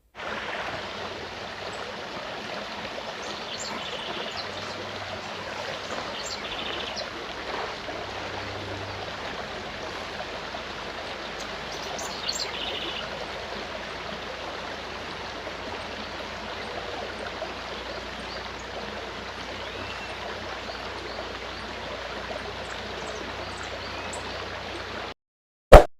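Forest stream running steadily, with a few faint bird chirps now and then. The water cuts off abruptly shortly before the end, and one loud, sharp click follows.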